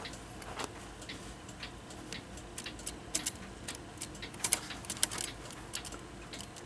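Light, irregular metallic clicks and ticks, more than a dozen, the loudest clustered around three seconds in and again around four and a half to five seconds in.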